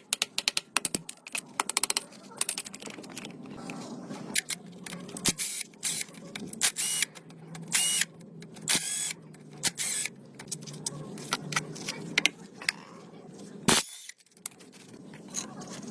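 Irregular clicks and clinks of tools and metal parts being handled, with a few short noisy scraping or hissing bursts over a steady low hum.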